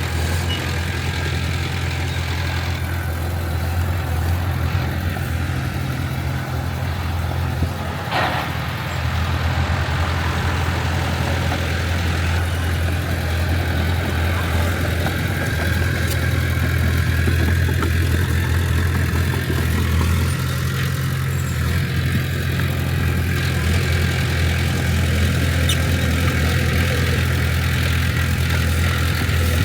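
Heavy diesel engine of earthmoving machinery running steadily with a deep, even hum, with one brief knock about eight seconds in.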